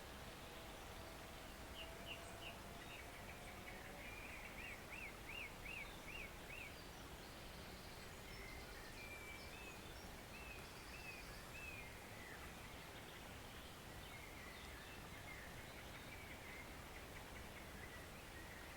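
Steady, soft rush of a woodland stream, with small birds calling over it: a quick run of repeated up-and-down notes about four to six seconds in, and scattered shorter calls after.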